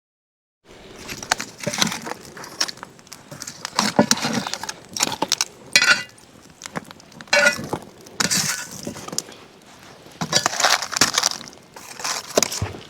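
Camp cookware and utensils clinking and clattering as they are handled, in many irregular sharp knocks and scrapes, with a couple of short metallic rings about six and seven and a half seconds in.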